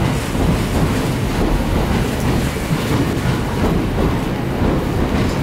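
Tokyo Metro 13000 series electric train pulling in alongside the platform, a steady rumble of its wheels running on the rails.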